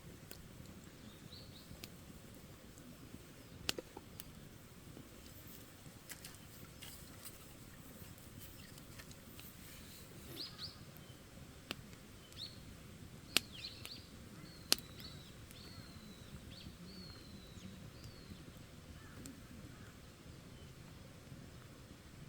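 Wood campfire crackling, with occasional sharp pops. A small bird chirps a series of short falling calls through the middle.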